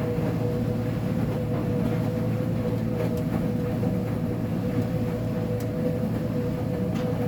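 Uni-Mac UniMat 35 commercial washing machine running with a load of blankets: a steady low rumble under a steady motor whine, with a few faint clicks.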